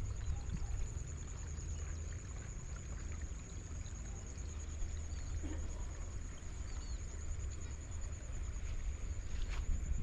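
Outdoor ambience: a steady high insect drone with a low rumble beneath it and a few faint bird chirps. A footstep-like tap comes near the end.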